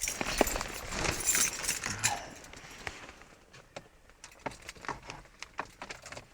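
Car keys jangling with rustling handling noise, then a quieter spell of scattered light clicks, before the engine is started.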